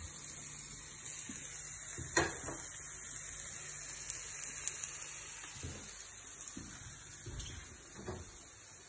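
Food cooking on a stove with a steady hiss, the sizzle and steam of carrots frying and stewing for a borscht zazharka. A few light knocks of a utensil or lid come at about two seconds, near the middle and near the end.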